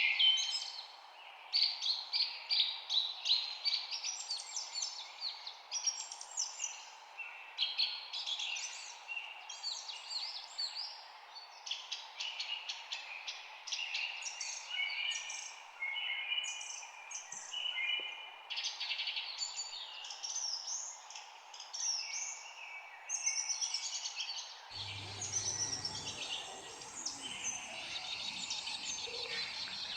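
Several songbirds chirping and trilling over one another, with a steady hiss of background noise. About 25 seconds in, the background shifts and a faint low rumble joins it.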